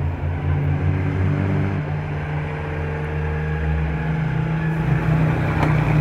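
Engines of vintage Officine Meccaniche (OM) sports cars driving up a hill, a steady low drone whose pitch shifts about four seconds in.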